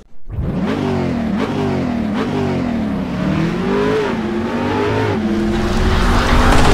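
Car engine accelerating hard through the gears: the revs climb and drop back at each of several gear changes, then hold a high steady note near the end as it gets louder. It starts suddenly just after the opening.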